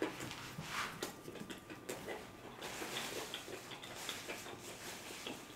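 Close-miked eating sounds: a man chewing food, with many soft, wet mouth smacks and clicks.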